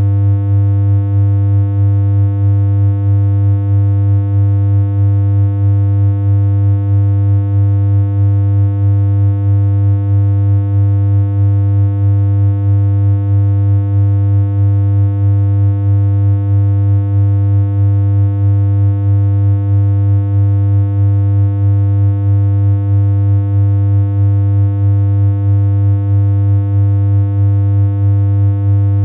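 Synthesized low electronic hum: a single steady tone that holds its pitch without change, with a slight regular pulsing in loudness.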